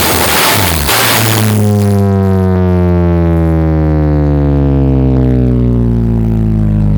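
Loud music through a sound-system rig. A dense rock passage stops about a second in, and a single sustained deep bass note with many overtones takes over, holding and slowly sinking in pitch.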